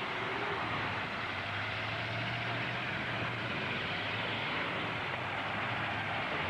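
Steady din of demolition derby truck engines running, with a low engine hum standing out for a couple of seconds in the middle.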